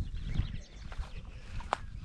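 Footsteps along a nature trail with wind and handling rumble on the microphone, faint bird chirps in the first half, and a single sharp click near the end.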